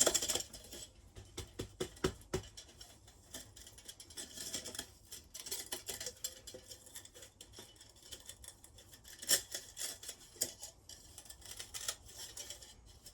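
Irregular small clicks, taps and scrapes of hands and tools working loose the parts of an electric melting furnace, with a louder cluster of clatter near the start and brief knocks around the middle.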